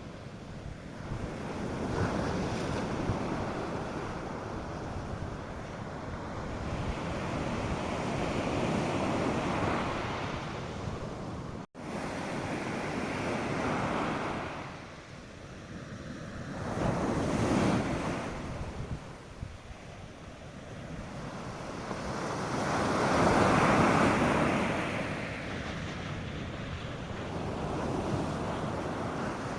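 North Sea surf breaking on a sandy beach, a steady wash of waves that swells and ebbs every few seconds, loudest about two-thirds of the way in, with wind buffeting the microphone. A momentary dropout in the sound about a third of the way in.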